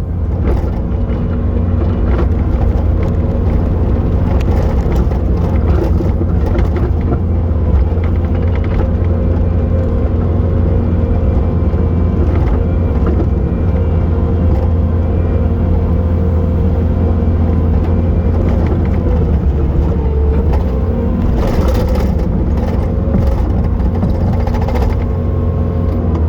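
Bobcat T870 skid steer's diesel engine running steadily at high revs under load while it digs through wet snow. Scattered cracks and knocks, most of them in the last few seconds, come from snow and ice chunks breaking up.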